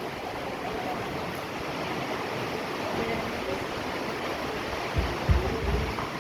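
Steady rain falling, an even dense hiss, with a few low thumps near the end.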